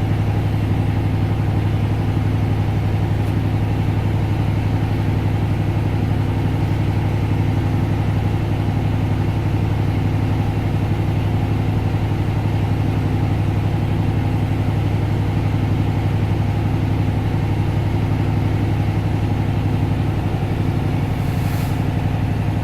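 Diesel semi-truck engine idling steadily while its air compressor builds the brake system up to full tanks, with a brief hiss near the end.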